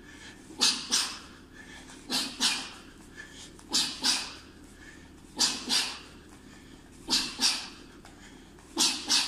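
A person breathing out hard through the mouth in quick pairs, two short hissing exhalations about a third of a second apart, repeated six times at a steady pace of about one pair every 1.7 seconds, in time with exercise reps.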